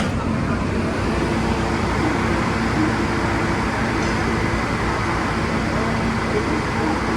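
New York City subway train running between stations, heard from inside the car: a steady rumble of wheels on rail with a faint steady hum.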